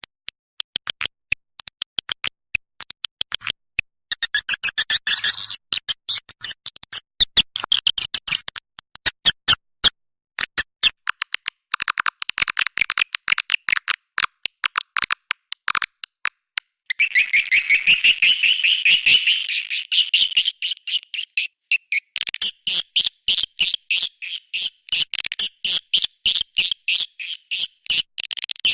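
Recorded swiftlet calls of the kind played to lure swiftlets into a nesting house: rapid, high-pitched chirping twitters and clicks, coming in choppy bursts and becoming a continuous chatter from about halfway through.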